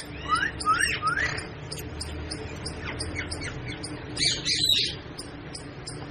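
Pet parrot squawking: three short swooping calls in the first second or so, then a louder burst of harsh calls about four and a half seconds in, with faint high chirps throughout.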